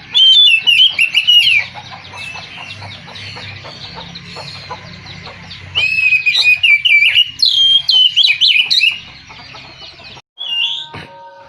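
Oriental magpie-robin (kacer) singing: two loud bursts of rapid, varied whistled phrases, one at the start and one from about six to nine seconds in, with softer twittering between. The song breaks off shortly before the end.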